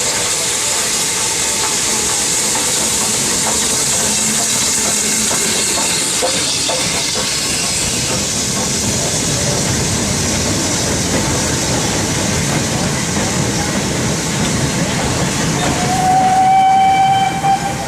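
Steam locomotive with steam hissing steadily and a low rumble from the train. Near the end the locomotive's whistle blows one steady note for about two seconds.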